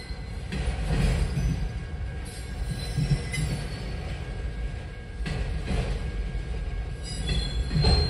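Autorack freight cars rolling past over a road crossing, heard from inside a stopped car: a steady low rumble of wheels on rail, with louder clattering at intervals.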